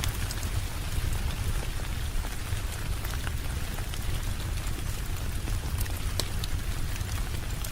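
Steady rain, with scattered sharp drop ticks over a constant low rumble.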